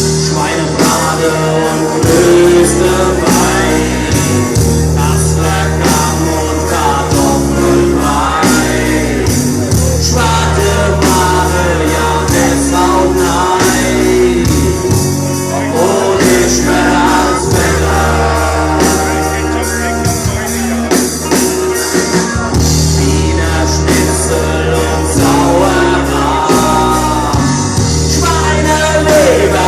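Live rock band playing a song with a lead singer: sung vocals over bass, guitar and a steady drum beat.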